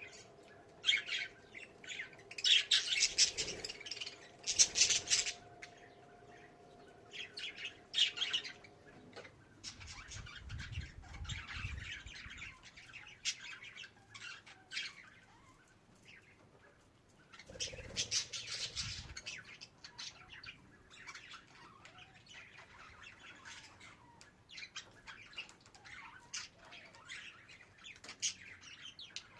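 Budgerigar twittering and chattering in irregular bursts of chirps and squawks, loudest about three to five seconds in and again around eighteen seconds.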